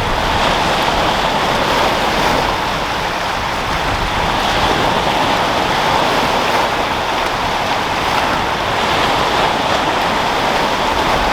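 Sea waves rolling in and breaking in the wind: a steady rushing wash of surf that swells and eases gently without letting up.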